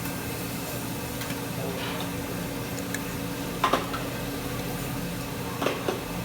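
Steady restaurant background hum, with a few sharp clinks of utensils on dishes about three and a half seconds in and twice near the end.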